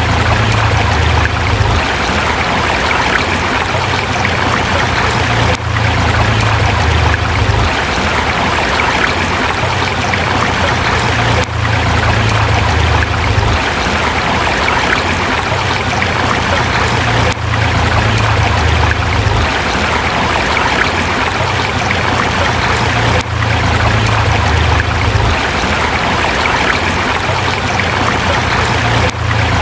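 Forest river water rushing and splashing over rocks, a steady loud flow with a brief dip in level about every six seconds.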